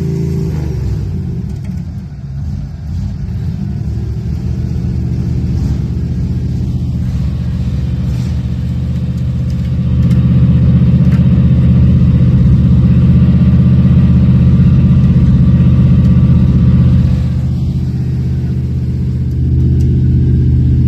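Off-road vehicle's engine revving and working hard, likely in mud. It is loud throughout, eases off about two seconds in, and climbs to a steady full-throttle level about halfway through. It drops briefly near the end, then picks up again.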